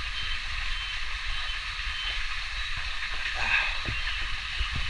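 Rainforest ambience: a steady, high hissing chorus of cicadas over a flowing stream, with a low rumble underneath.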